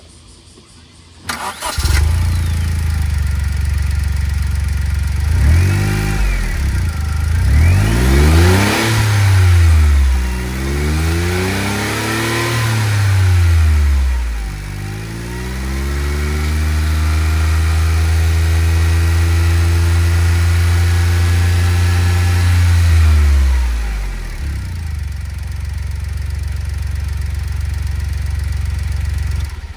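Honda S660 turbocharged three-cylinder engine starting after a short crank about a second and a half in, then idling and revved several times with rising and falling pitch. It is held at a steady raised speed for several seconds, settles back to idle, and is shut off at the end.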